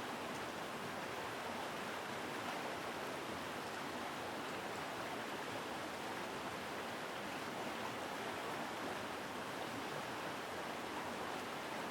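Mountain stream rushing strongly over rocks, a steady, even water noise.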